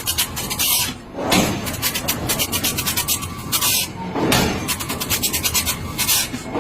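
Metalworking noise: a harsh rasping scrape with bursts of hiss that recur about every second and a half, over a dense rattle of small clicks.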